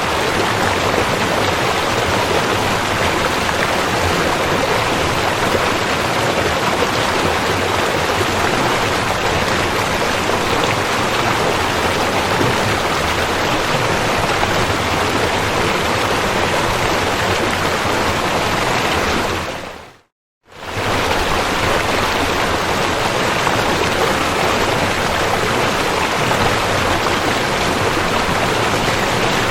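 River water rushing steadily. About two-thirds of the way through, the sound fades to silence for about half a second and comes straight back.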